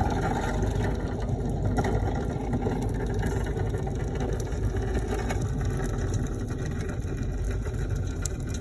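Subaru car moving slowly, a steady low rumble of engine and rolling noise.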